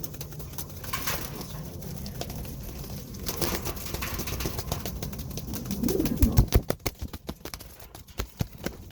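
Domestic pigeons cooing, with a faint low call rising and falling about six seconds in. A quick run of sharp clicks and knocks follows near the end.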